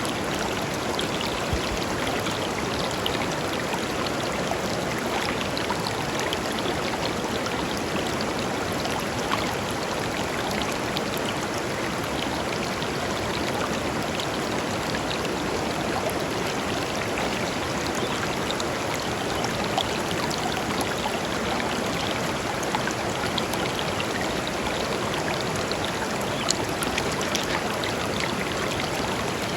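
A shallow river flowing steadily over stones, a continuous rush with small splashes and trickles through it.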